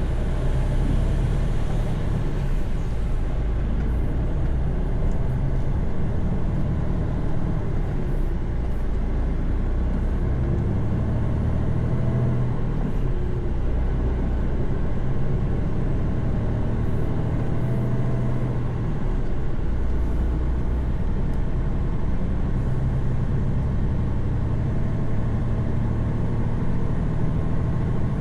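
Mercedes-Benz Actros truck on the move, heard from inside the cab: a steady low engine drone under road and tyre noise.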